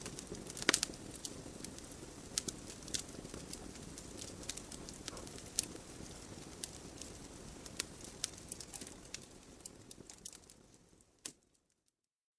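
Wood fire crackling in a fireplace: irregular sharp pops and snaps of burning logs over a steady low hiss of the flames. Near the end it fades out to silence for about a second.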